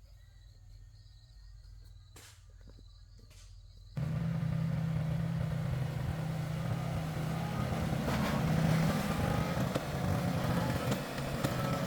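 Faint insects and two sharp clicks, then about four seconds in an engine cuts in abruptly, running loud and steady with a low hum.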